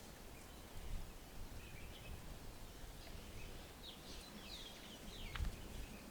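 Birds calling: a few short, high chirps, then a quick run of downward-sweeping calls in the second half, over a low background rumble.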